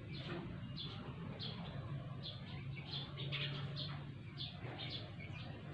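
Birds chirping: short, high chirps repeated about twice a second, over a low steady hum.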